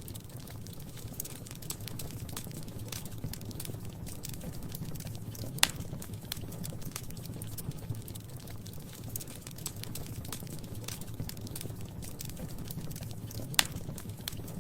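Wood fire crackling in a fireplace: many small snaps over a steady low rumble, with two sharp louder pops, one about halfway through and one near the end.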